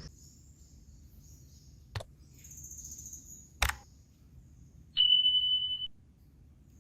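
Insects chirring faintly in forest, broken by two sharp clicks, then a loud steady high beep lasting about a second, about five seconds in.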